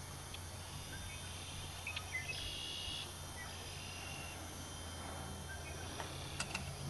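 Quiet outdoor background with a low steady hum, and a few faint high chirps about two to three seconds in.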